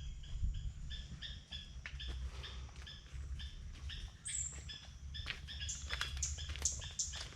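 Birds chirping in short, quickly repeated notes, about three a second, with some higher notes in the second half, over a low rumble.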